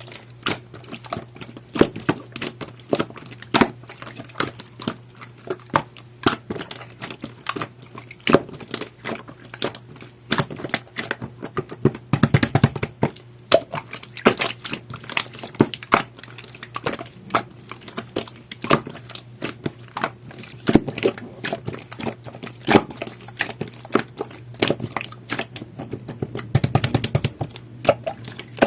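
Jelly-textured masking-tape slime being squished and pressed by hand, giving a dense, irregular run of small sticky clicks and pops.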